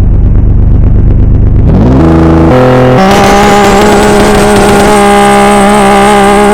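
Car engine running loud at low revs, then stepping up sharply in pitch about two seconds in and holding a steady high rev. A thin high whine sits over it.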